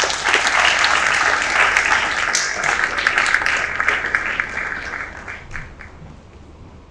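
Audience applauding, dying away about five to six seconds in.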